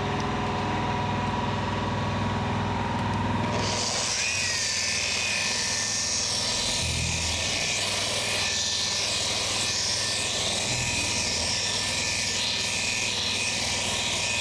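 Rupes dual-action polisher running with a coarse wool pad and Meguiar's M100 compound, cutting swirled paint. About four seconds in its sound changes: the low hum drops away and a higher hiss with a thin steady whine takes over.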